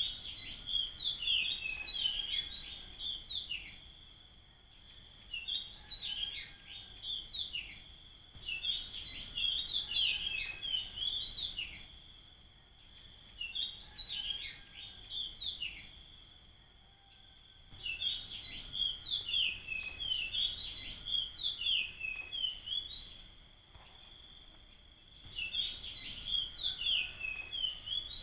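Bouts of rapid, high-pitched twittering bird calls, each a few seconds long with short pauses between, over a steady high-pitched whine.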